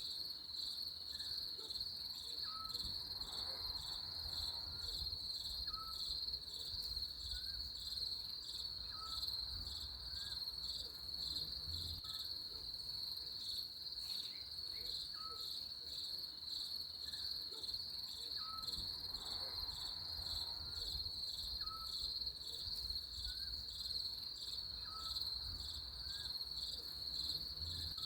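Crickets trilling steadily, with a faint short chirp repeating about once a second.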